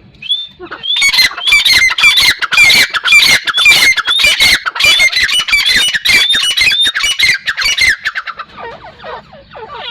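Grey francolin calling: a loud, fast series of harsh, repeated notes starts about a second in and stops shortly before the end. Softer falling notes follow.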